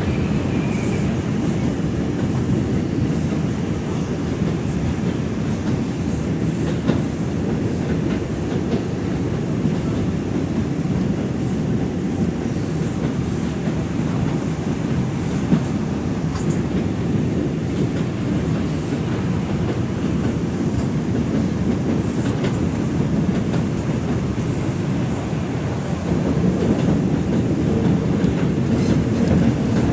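Inside an R142 subway car running between stations: a steady rumble of wheels on rail with clickety-clack over the rail joints, and a faint high whine. It gets louder near the end.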